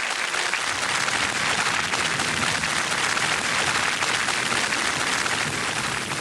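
Television studio audience applauding, a dense, steady clapping.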